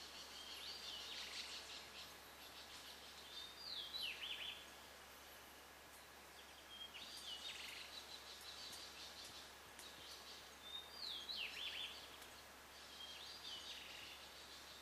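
Faint birdsong over a steady hiss. About five short phrases of chirps and a whistled note sliding down come roughly every three to four seconds.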